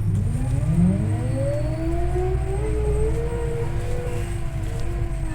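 Scania OmniLink I city bus pulling away: the drivetrain's whine rises in pitch over about three seconds, then levels off over a steady low engine rumble.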